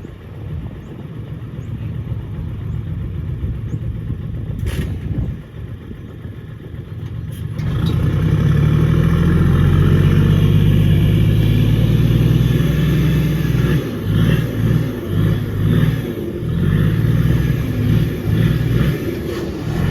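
Heavy diesel engine of earthmoving equipment. It runs at a low level at first, with a single knock near 5 seconds in. About 7.5 seconds in it revs up to a loud, steady run under load, then surges up and down in repeated pulses from about 14 seconds on.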